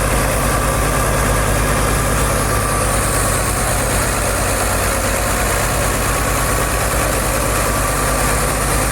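Fiat 640 tractor's diesel engine running steadily at constant speed, its firing pulses coming as an even, fast throb.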